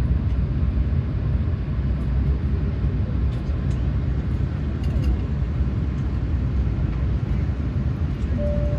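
Steady low rumble of an Airbus A380's passenger cabin on the ground before takeoff, with a few faint clicks.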